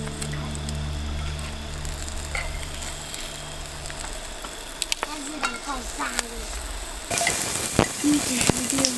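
Food sizzling in a pan, the hiss growing louder about seven seconds in.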